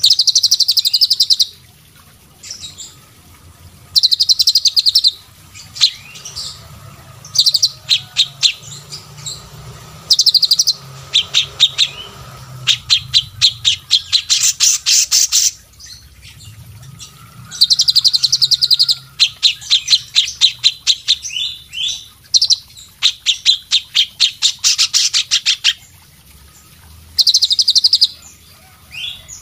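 Songbird singing in repeated bursts of rapid, high-pitched chattering trills, each burst lasting one to three seconds with short pauses between.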